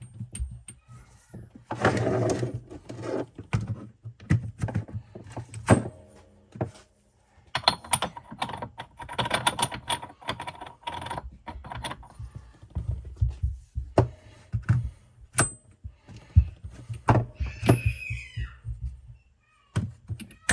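Metal tools and transfer-case parts clinking and knocking during hands-on teardown, a steady scatter of sharp clicks and clanks with a couple of denser rattling stretches.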